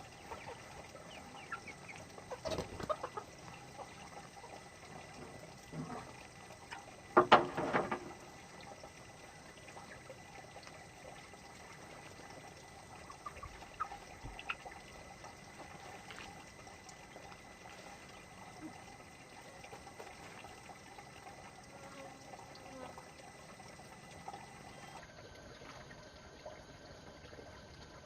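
Chickens clucking over a steady low background, with one louder call lasting under a second about seven seconds in.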